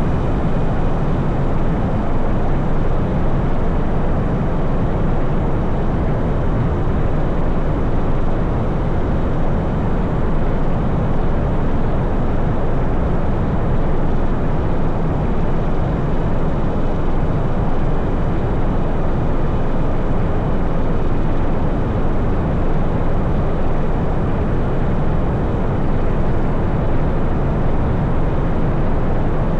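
Steady rush of wind buffeting a handlebar-mounted camera, with tyre noise, as a Talaria Sting R MX4 electric dirt bike is ridden fast.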